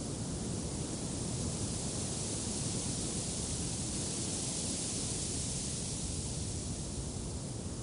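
Steady wind blowing, a continuous hiss over a low rumble that swells a little in the middle.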